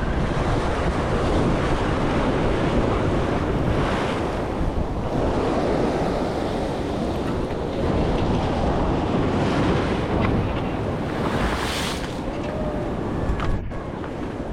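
Steady wind buffeting the microphone over choppy surf washing against jetty rocks.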